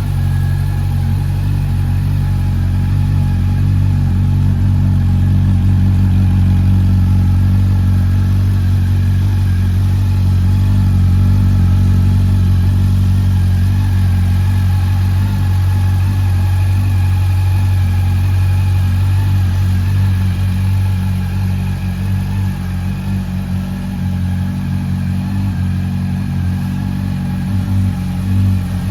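Honda CB400 Super Four's inline-four engine idling steadily through a Yoshimura aftermarket muffler, with a deep, even exhaust note that wavers slightly near the end.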